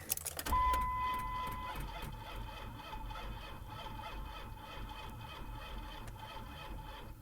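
1999 Dodge Ram 1500 pickup with the ignition switched on: a steady low hum with a thin whine. The whine is higher for about the first second, then settles slightly lower and runs on evenly.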